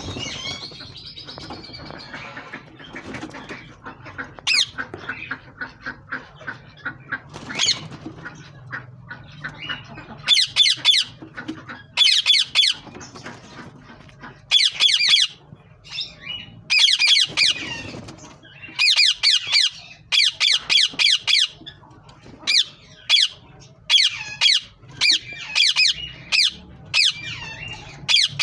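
Green ringneck parrots (rose-ringed parakeets) calling with harsh, repeated squawks. The calls are quieter chatter at first, then from about ten seconds in come loud and in quick runs of strokes.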